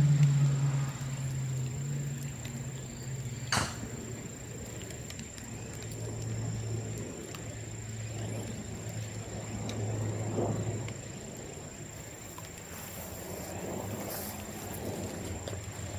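Bamboo bonfire crackling faintly, with one sharp crack about three and a half seconds in. A low engine hum fades out in the first second, and a low hum comes and goes behind the fire.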